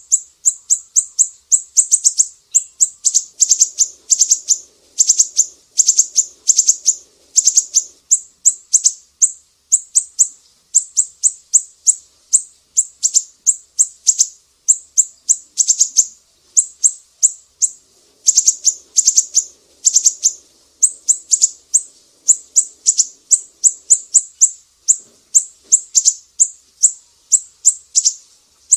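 Sumatran siri-siri bird singing a long, rapid series of high, sharp chirps, about several notes a second, in run-on phrases broken by brief pauses.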